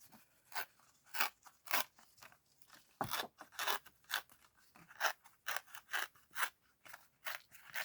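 Sheet of cardstock being torn by hand towards the body in a run of short, crisp rips, about two a second, to make a rough torn edge.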